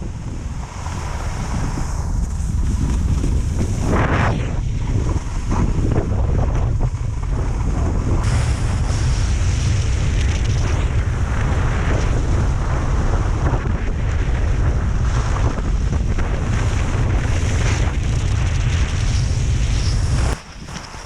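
Wind buffeting the microphone during a ski run: a steady, loud low rumble with a high hiss over it, which drops briefly near the end.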